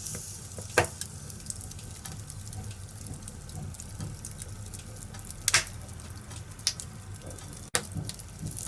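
Wood fire in a fireplace crackling, with a few sharp pops over a steady low hiss; the loudest pops come about a second in and again past the middle.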